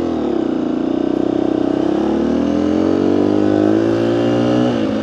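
Dirt bike engine running while being ridden, its pitch climbing a couple of seconds in and dropping near the end, picked up by a microphone inside the rider's motocross helmet.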